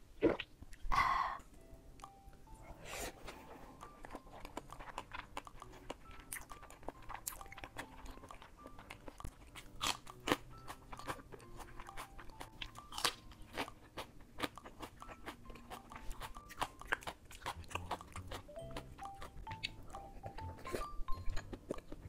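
Close-miked crunching bites and chewing of food, among them a raw green chili pepper. Under it runs quiet background music of single stepped notes.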